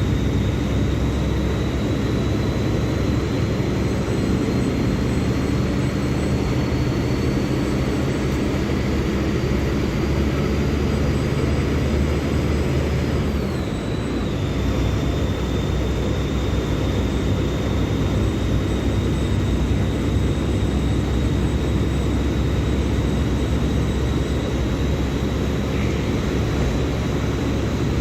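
Diesel engine of a Mercedes-Benz OF-1724L Bluetec 5 bus running steadily with a deep hum and a thin high whine. The whine slowly rises in pitch, then drops sharply about halfway through, where the sound briefly dips in loudness.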